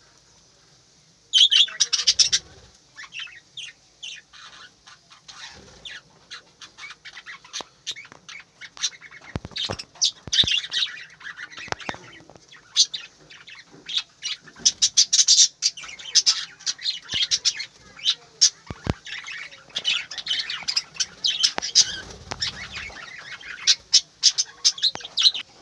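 A flock of budgerigars chattering: a dense, irregular run of short high chirps and squawks that starts about a second in, loudest at its first burst.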